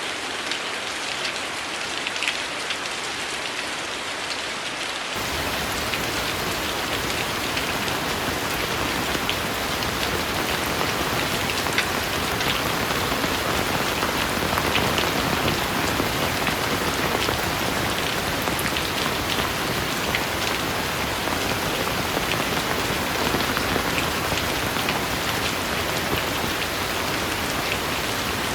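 Heavy rain falling steadily, with single close drops standing out. About five seconds in, it abruptly turns fuller and a little louder.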